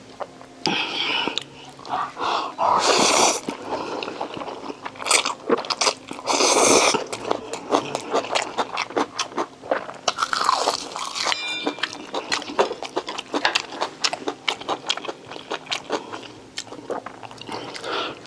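Close-miked eating: a person chewing and biting food, with steady mouth clicks and smacks and several louder, longer noisy bursts scattered through.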